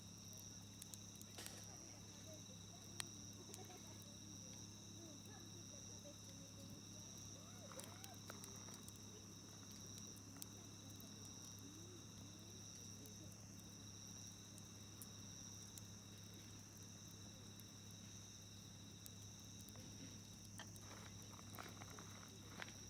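Faint, steady insect trilling, typical of crickets, over a low hum, with scattered sharp pops and crackles from a wood campfire, the loudest about three seconds in and a cluster near the end.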